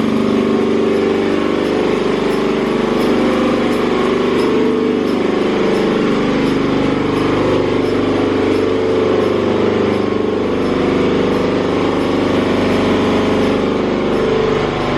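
Car wash dryer blowers running steadily at full power, a loud, even rush of air with a low hum in it, heard from inside the car.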